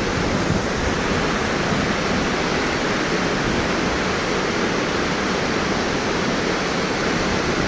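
Steady, loud rush of a tall waterfall plunging into its pool, heard from close to its base.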